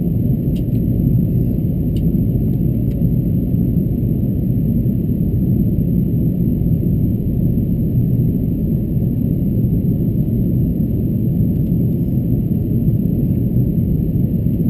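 Airbus A330-223 cabin noise in flight: a steady deep rumble of engines and airflow, with a few faint clicks in the first few seconds.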